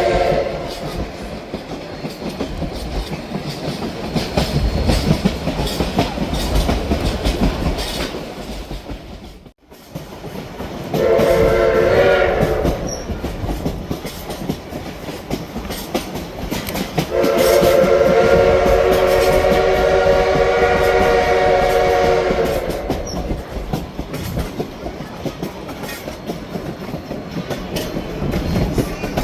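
Steam locomotive chime whistle sounding a short blast and then a long one, each a multi-note chord, over the steady rumble and clickety-clack of the train rolling along the track. The sound cuts out briefly about a third of the way in.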